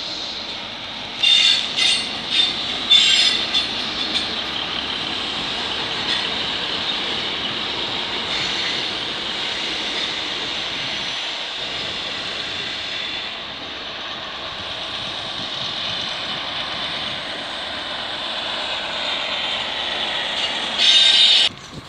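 First Great Western High Speed Train, a Class 43 diesel power car and Mark 3 coaches, rolling past with a steady rumble. Its wheels squeal in several short bursts about a second in, and squeal louder again near the end before the sound cuts off suddenly.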